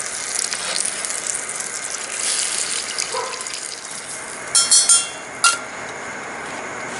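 Hot oil sizzling and crackling steadily in a frying pan as tomato sambal ingredients cook, with a sharp ringing clink a little past four seconds in and a single knock half a second later.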